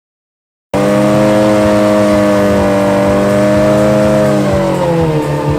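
Sport motorcycle engine held at steady high revs, then dropping to a lower pitch near the end.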